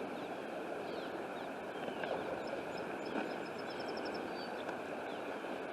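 Steady rush of a flooded creek running high and fast. Small birds chirp over it, and one rapid high trill comes about two and a half seconds in.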